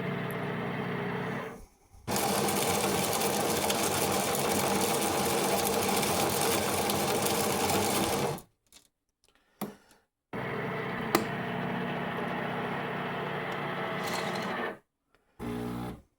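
De'Longhi coffee machine running with a steady buzz, cutting out and starting again several times: a long run of about six seconds, then a shorter one, then a brief burst near the end.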